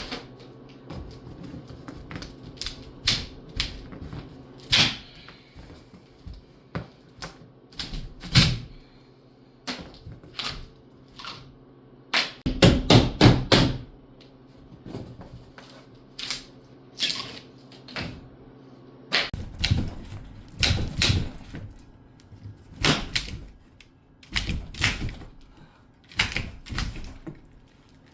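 Irregular knocks, clacks and thuds of things being handled and knocked about, with a fast run of knocks about twelve seconds in and further clusters later.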